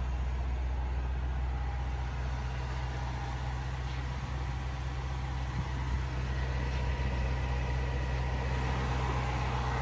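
2016 Range Rover Sport SVR's 5-litre supercharged V8 idling steadily.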